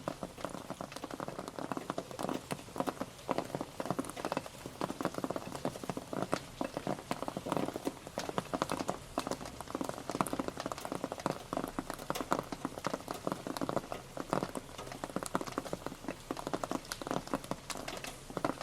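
Rain pattering on a surface: a dense, irregular stream of individual drops that keeps up steadily.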